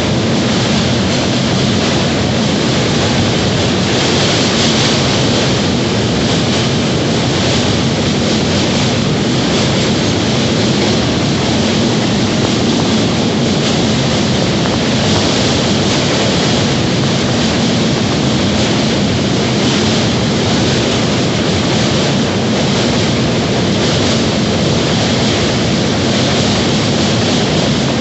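A train running steadily at speed: a loud, even rumble and rush of wheels on track that holds without a break.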